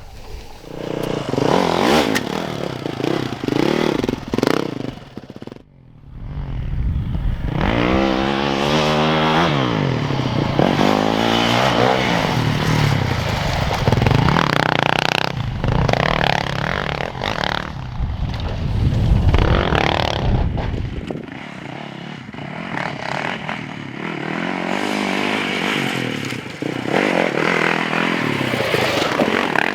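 Yamaha YZ450FX dirt bike's single-cylinder four-stroke engine being ridden hard, its revs rising and falling over and over. The sound drops away briefly about six seconds in before the engine picks up again.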